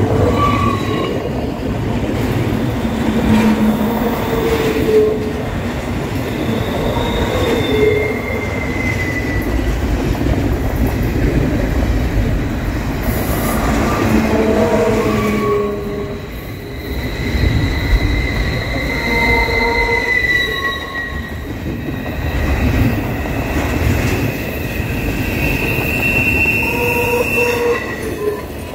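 Double-stack intermodal container train rolling past at close range: a steady loud rumble and clatter of the well cars' wheels on the rails. Short wheel squeals come and go at several different pitches, some sliding slightly in pitch.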